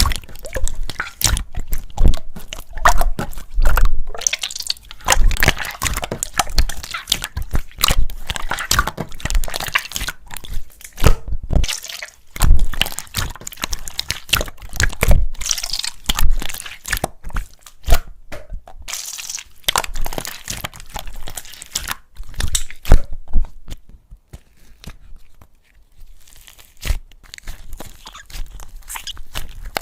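Slime being squished, pressed and stretched by hand, giving a dense run of crackling, popping clicks with wet, sticky sounds, briefly quieter about three quarters through.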